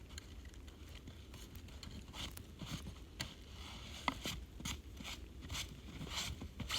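Handling noises: irregular scrapes, rustles and clicks over a low steady hum, with a brief squeak about four seconds in.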